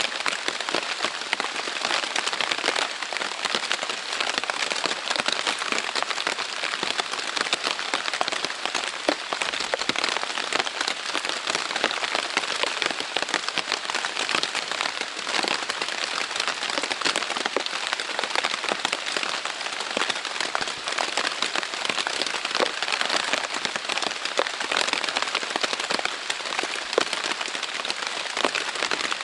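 Heavy rain falling steadily on a Zpacks Plexamid tent's Dyneema fabric: a dense, even hiss of countless drop impacts that never lets up.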